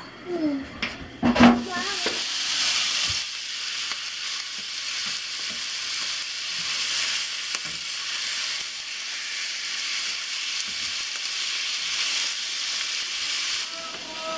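A spatula scrapes and knocks as chicken livers go into a frying pan of onion and garlic in hot oil. From about two seconds in they sizzle steadily while being stirred with a plastic spatula.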